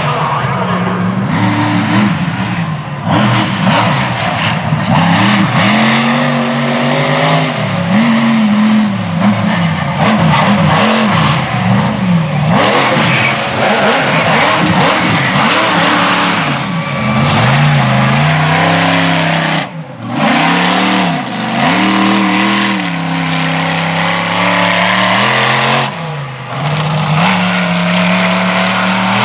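Ramminator monster truck's engine revving hard, its pitch rising and falling again and again as the throttle is worked. It drops off briefly twice in the latter part.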